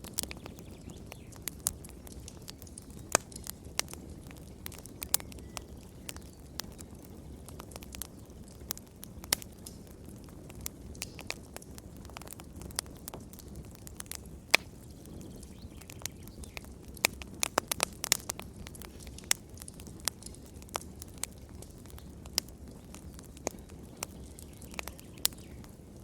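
Fire crackling in a fireplace: irregular sharp pops and snaps over a low, steady rumble of flame, with a quick cluster of pops about two-thirds of the way through.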